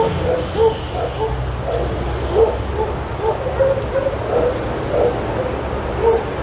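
Dogs barking in short, irregular woofs, about two a second, over a steady low hum.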